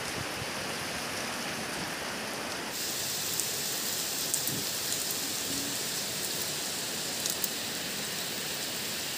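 Steady rain falling, a continuous even hiss that turns brighter about three seconds in, with a few faint sharp ticks.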